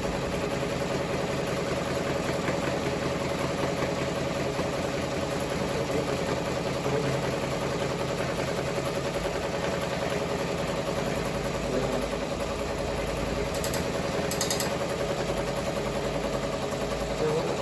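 Ricoma MT-1501 multi-needle embroidery machine running steadily: a rapid, even mechanical chatter over a steady hum. Two brief high ticks sound about 14 seconds in.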